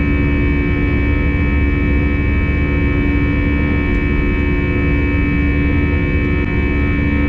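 Airbus A320 cabin noise during climb-out: the jet engines running steadily, a low rumble with several steady humming tones on top.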